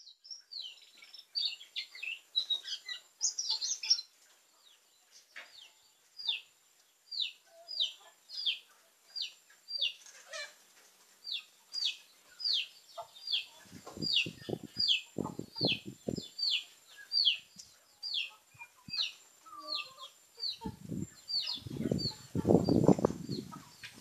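A small bird repeating a short, high, falling chirp about once every three-quarters of a second. Twice in the second half come stretches of lower, rougher noise.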